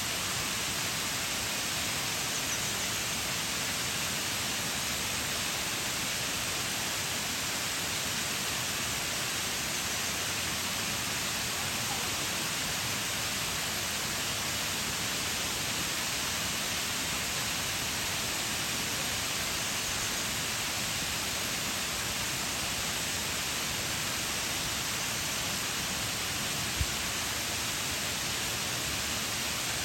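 Waterfall pouring steadily, an even rushing roar of falling water with no changes, and a single brief low bump near the end.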